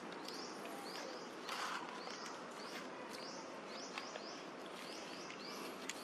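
Birds chirping: short, high chirps rising in pitch, repeated in clusters of two or three a few times a second over a steady outdoor hiss, with one louder, lower call about a second and a half in.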